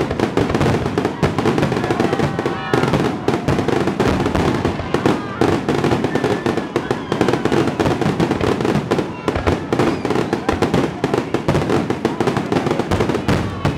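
Aerial fireworks display: shells bursting in a dense, unbroken barrage of bangs and crackles, with many reports overlapping each other.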